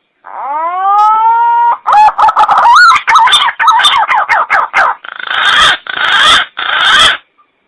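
Green pigeon (punai) call played back as a hunting lure: a whistle that rises and then holds steady, then a quick run of warbling, wavering notes, ending in three longer hoarse, noisy notes.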